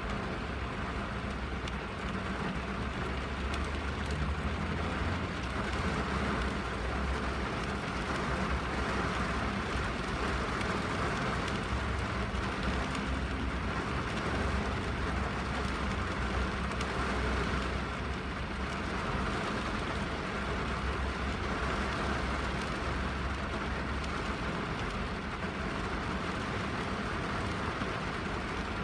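Rain falling on a car's roof and windows, heard from inside the cabin as a steady hiss over a low rumble.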